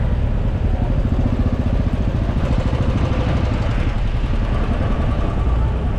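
A motor vehicle's engine running steadily, a low rumble with a fast even pulse.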